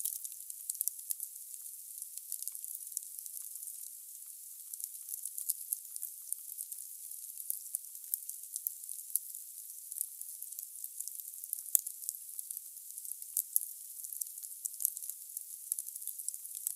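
Wood fire burning in a fireplace, crackling with many small, sharp pops over a steady hiss.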